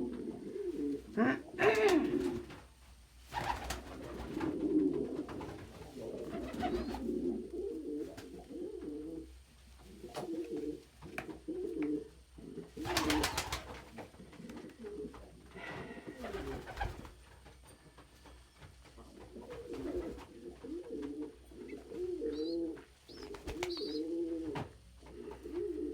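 Domestic pigeons cooing over and over in an enclosed loft, with a few short rustles, the loudest about halfway through.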